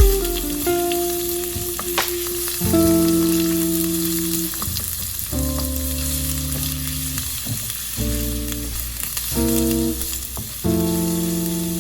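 Food sizzling in a frying pan, with a spatula stirring and an occasional tap. Soft background music plays sustained chords over it, changing every couple of seconds.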